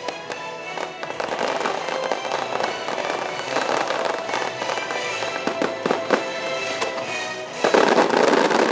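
Fireworks finale: repeated sharp bursts and crackling over loud show music, building to a dense barrage about a second before the end.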